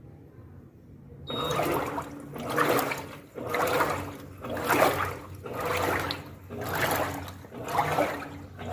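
Electrolux 15 kg washing machine sloshing water in its tub: after a low hum, the water starts about a second in and comes in regular surges about once a second.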